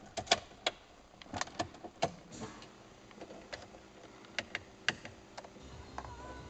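Scattered sharp clicks and knocks from handling in and around a car before it is started, then, about six seconds in, a faint steady electrical whine and low hum begin as the ignition is switched on.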